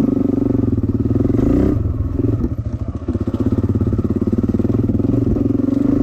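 Dirt bike engine under throttle, its pitch climbing and then dropping as the throttle is shut about two seconds in, picking back up a second later.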